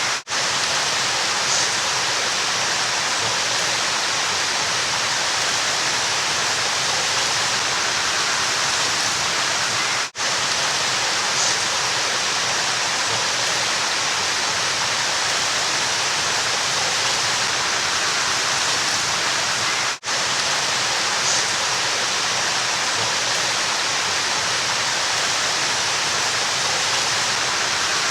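River water rushing steadily. It is a short recording played on a loop: the sound drops out for an instant about every ten seconds.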